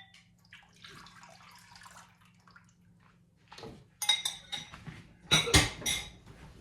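Milk and cream pouring into a saucepan, followed by several sharp clinks and knocks of kitchenware against the pan, the loudest a little before the end.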